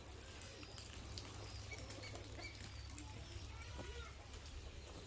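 Faint bird calls, short scattered chirps and curved notes, over a low steady rumble.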